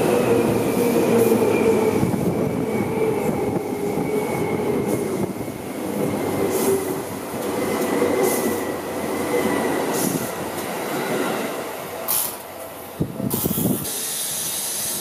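Yellow Seibu Railway commuter train passing close by, with steady running noise from wheels on rail, a faint high whine slowly falling in pitch, and a few sharp clacks. About 13 seconds in, the train sound cuts off abruptly and gives way to quieter background noise.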